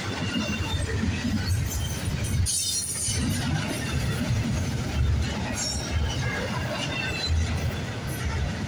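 Double-stack intermodal container cars rolling past at speed: a steady rumble and clatter of steel wheels on the rails, with short faint high squeals from the wheels.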